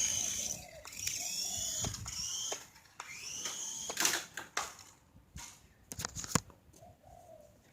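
Small electric motor of a toy RC helicopter whining in flight, its pitch gliding up and down as the throttle changes. The whine stops about three seconds in, and a few sharp clicks and knocks follow.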